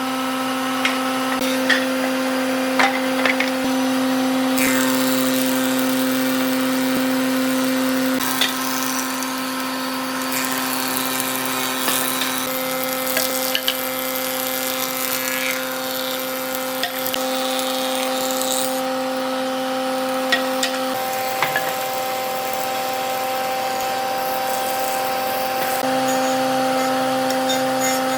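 An electric power tool running steadily on wood, a motor hum with scattered small clicks and knocks. The tone shifts abruptly a few times.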